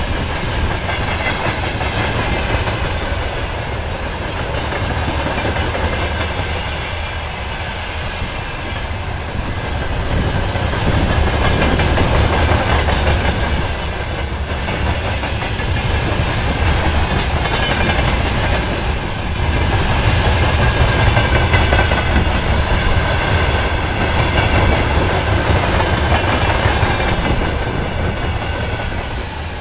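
Freight train rolling past: steady rumble of wheels on the rails, with clickety-clack over the rail joints. A thin, very high wheel squeal comes in briefly about halfway through and again near the end.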